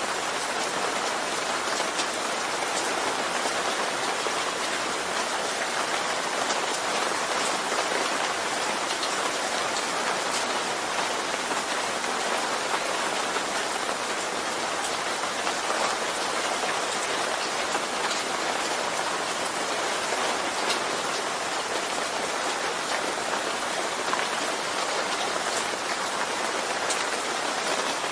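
Steady rain falling on a surface, a constant hiss with scattered drop ticks.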